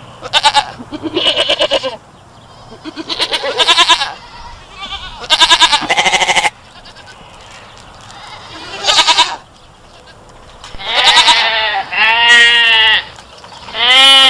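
Goat bleating again and again, about eight wavering calls with short pauses between them, some brief and some drawn out for more than a second.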